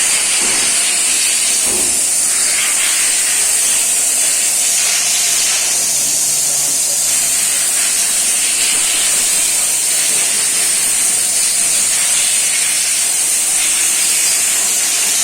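A steady, loud hiss, strongest in the high treble, unchanging throughout with no distinct knocks or tones.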